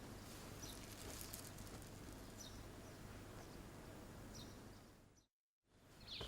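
Quiet background ambience with faint, short bird chirps about once a second. It breaks off into a brief total silence about five seconds in.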